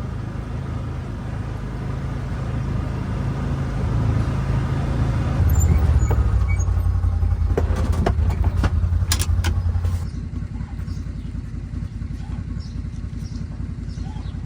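Vehicle engine running with a steady low rumble. It gets louder for a few seconds in the middle, when several sharp knocks or rattles come, then drops back to a lower, even running about ten seconds in.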